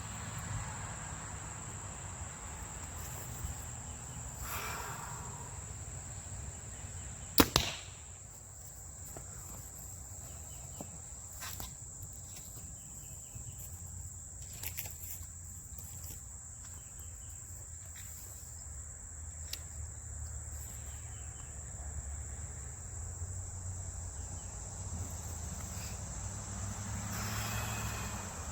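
A bow shot about seven seconds in: the bowstring's sharp snap, then a fraction of a second later the arrow striking the target. A steady high insect trill runs underneath.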